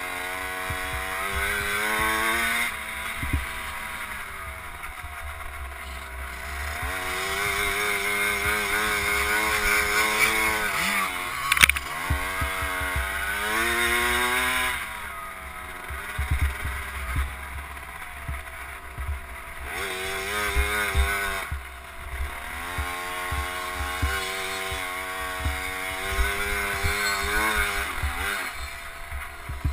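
KTM 50 SX's small two-stroke single-cylinder engine revving up and easing off again and again as the bike is ridden around a motocross track, heard from on board, with low thumps throughout and one sharp knock a little before halfway.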